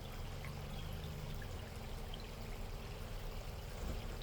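Ford Bronco creeping slowly over rocks: a low, steady engine hum under an even rushing hiss.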